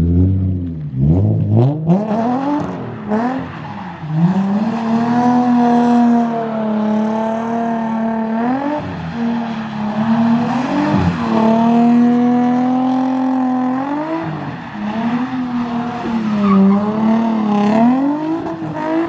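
Nissan 350Z's 3.5-litre V6 with an aftermarket exhaust, revved hard and held high while the car drifts on wet pavement. The pitch climbs and drops again and again as the throttle is worked, with long held stretches between the dips.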